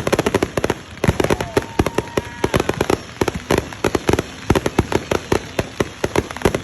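Fireworks going off: a rapid, irregular string of sharp bangs and pops, several a second, with a faint whistle gliding in pitch about a second or two in.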